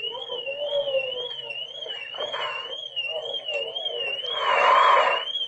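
A high electronic alarm tone warbling up and down about twice a second without letup, like a car alarm or siren. Faint voices sound underneath, and a louder rush of noise comes near the end.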